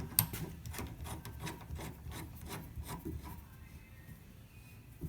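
Rubbing and small rapid clicks of a hose coupling being screwed by hand onto a water heater's hot-water service valve. The clicking runs for about three seconds, then dies away.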